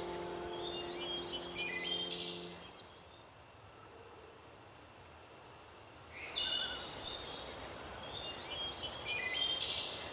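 Small birds chirping in quick clustered bursts over a faint steady hiss. A soft sustained music chord fades out about two and a half seconds in. The birds fall quiet for about three seconds, then chirp again.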